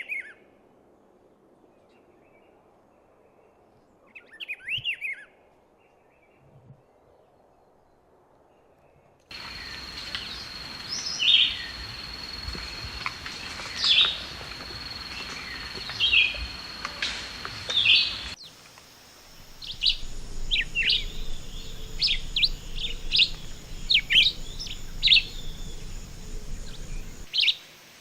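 Wild birds calling, heard in three separate recordings: a few short chirp phrases over quiet background, then sharp chirps about every two seconds over a steady high tone, then a faster run of chirps.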